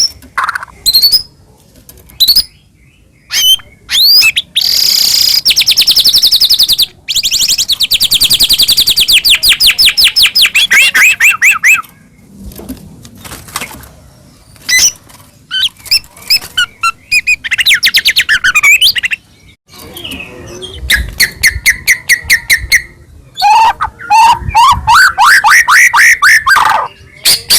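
White-rumped shama (murai batu) singing a loud, varied song: phrases of rapid repeated notes and trills, some rising, broken by short pauses.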